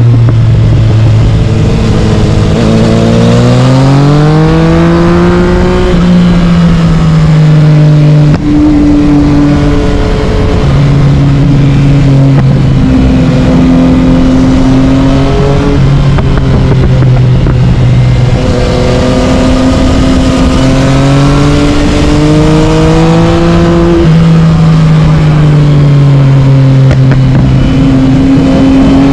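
Yamaha MT-09's three-cylinder engine through an Akrapovic carbon exhaust, ridden hard: the revs hold steady for stretches, twice climb smoothly and then drop back, with a brief break in the sound at about eight seconds.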